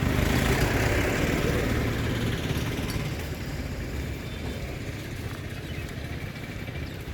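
A motor vehicle's engine running as it passes close by and fades steadily away.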